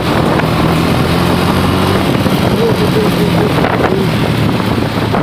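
KTM Duke motorcycle engine running steadily while the bike is ridden along the road, with wind noise on the microphone.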